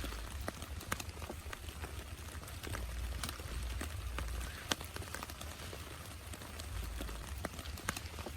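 Heavy rain falling, with irregular sharp taps of single drops hitting a nearby surface over a steady hiss and a low rumble underneath.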